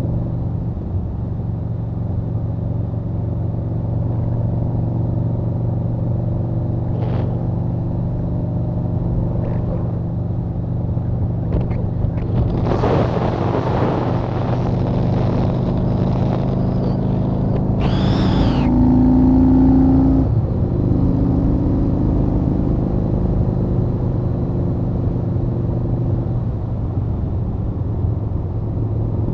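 Yamaha Warrior 1700's big air-cooled V-twin engine running steadily at cruising speed, heard from the saddle with wind rushing past. The sound swells louder for a few seconds around the middle.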